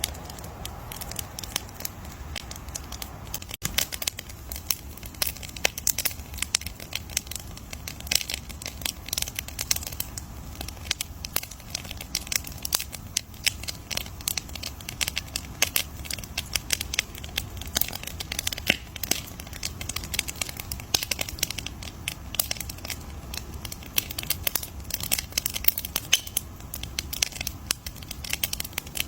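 Bonfire crackling: a dense, irregular stream of sharp pops and snaps from burning wood over a low steady rumble.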